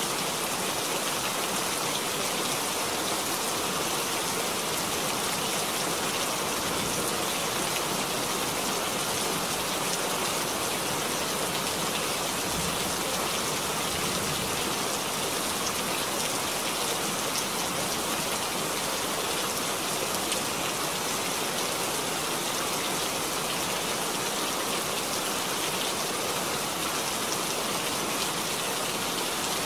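Steady rain falling into a puddle, an even hiss of many drops.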